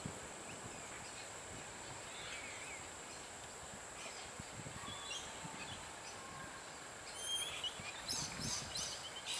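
Outdoor background hiss with birds chirping now and then, the calls coming thicker in the last couple of seconds.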